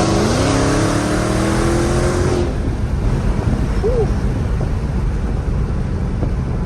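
Dodge Hellcat's supercharged 6.2-litre Hemi V8 accelerating at part throttle, its pitch rising for about two and a half seconds, then a steady low drone of engine and road noise.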